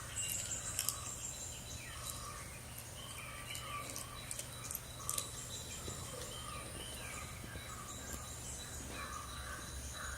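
Faint outdoor ambience played back through a device's speaker: scattered chirping and a few sharp clicks over a steady low hum.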